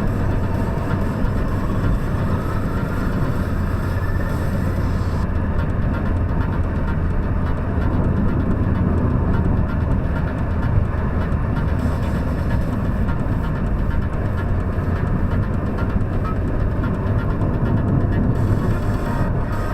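Opel Astra G 2.0 DTi four-cylinder turbodiesel running steadily, a low constant drone, with a faint rising whistle in the first few seconds.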